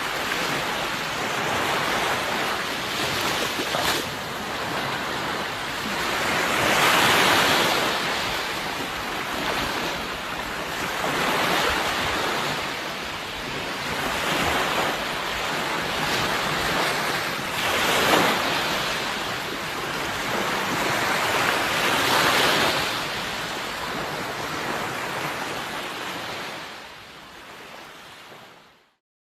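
Sea waves washing in, a steady rush that swells and recedes every few seconds, then fades out near the end.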